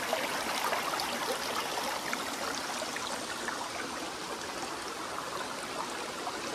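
Stream water running steadily, with small trickles and splashes.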